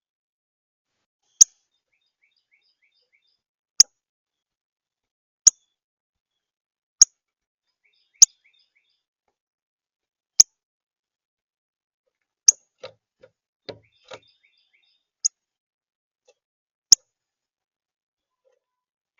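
Northern cardinal giving loud, sharp chip calls, about nine in all, one every second or two. Faint twittering of other birds sits behind them, and a few soft knocks come about two-thirds of the way through.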